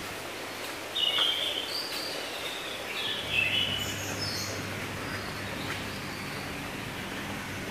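Small birds chirping: a few short high calls, the loudest about a second in and again around three and a half seconds, over steady outdoor background noise, with a faint low hum for a couple of seconds midway.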